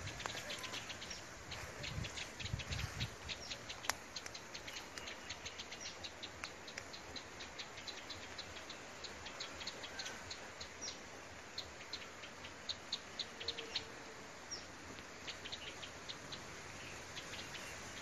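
Small birds chirping, many short high calls scattered irregularly over a steady outdoor hiss. A brief low rumble comes about two seconds in, and a single sharp click about four seconds in.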